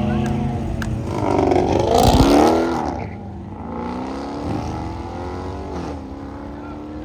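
A car accelerating hard and passing by, its engine note rising and then dropping as it goes past, loudest about two seconds in. After that a quieter engine pulls away with a slowly rising note.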